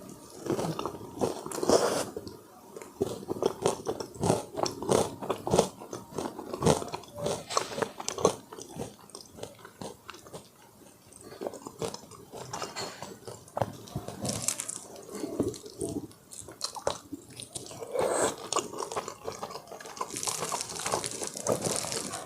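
Close-miked eating: crunchy bites into crispy Korean fried chicken, with chewing and crackling between the bites. The sound eases for a few seconds in the middle, then grows louder near the end.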